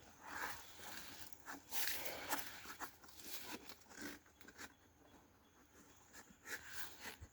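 Irregular scraping, rustling and light knocks from an empty beehive box being cleaned out by hand, with the busiest handling in the first half and quieter scrapes after that.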